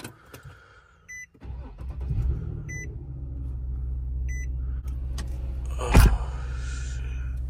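Infiniti G37 sedan's VQ V6 starting about a second and a half in, surging briefly, then settling into a steady idle. A chime beeps three times about a second and a half apart. A few light clicks come before the start, and a sharp knock about six seconds in.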